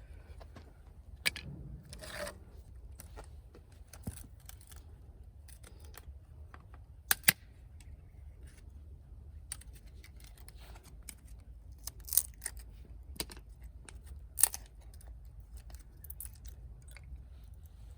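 Dry firewood burning in a campfire, crackling with irregular sharp pops and snaps, a few of them much louder than the rest.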